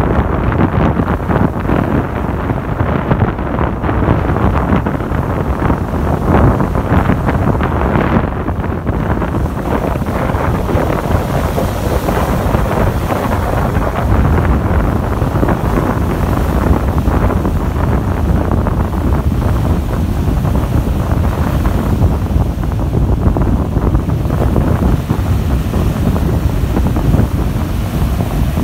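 Sea surf with waves breaking and washing in, under strong wind rumbling against the microphone.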